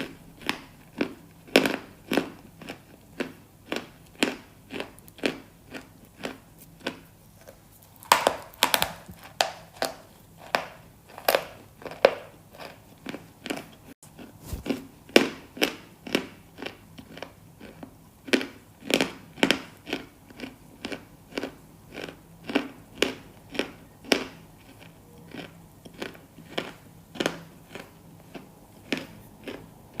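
Close-miked crunchy food being bitten and chewed, a steady run of sharp crunches about twice a second.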